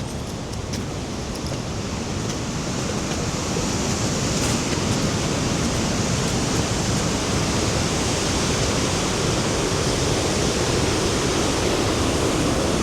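Rhine Falls: the steady rush of a large waterfall, growing louder over the first few seconds and then holding steady.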